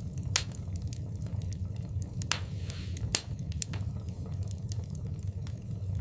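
Wood fire in a fireplace crackling: irregular sharp pops over a steady low rumble of the flames, with louder pops just under half a second in and about three seconds in.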